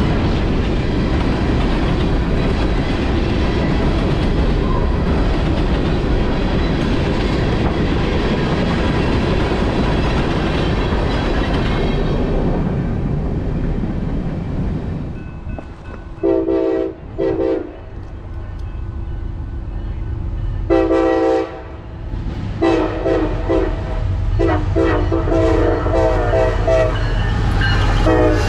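Freight train of covered hopper cars rolling past with a steady rumble that fades away about halfway through. Then a diesel freight locomotive's multi-chime air horn sounds a series of blasts, a few spaced apart and then a quick run of them, while the low rumble of approaching locomotives builds near the end.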